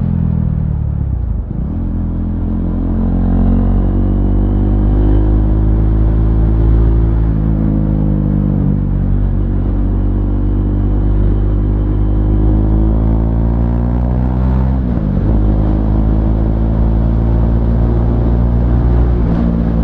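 A 2017 KTM Duke 390's single-cylinder engine running loud through an aftermarket SC Project exhaust while riding. The revs climb and ease off, with quick dips in pitch about a second and a half in and again about three-quarters of the way through as it changes gear.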